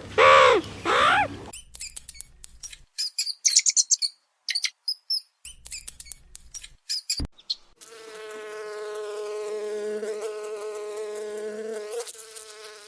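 A crow cawing loudly a few times, then scattered high chirps and clicks, then a steady insect buzz with an even pitch for about four seconds that fades off near the end.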